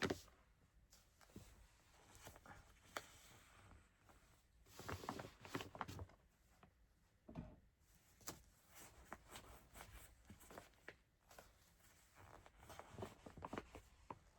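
Faint rustling with scattered light clicks and soft knocks: yarn skeins being handled and pushed onto shelves.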